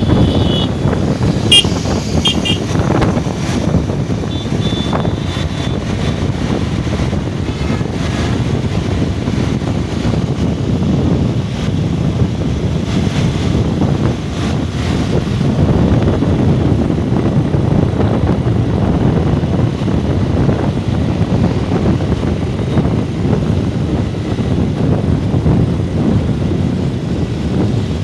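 Steady low rumble of a moving vehicle with wind buffeting the microphone. A few brief high tones come in the first few seconds.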